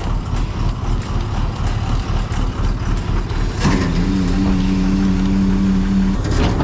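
Truck engine running steadily with a low rumble. A little past halfway a steady pitched whine starts with a slight upward slide, holds for about two and a half seconds, then cuts off.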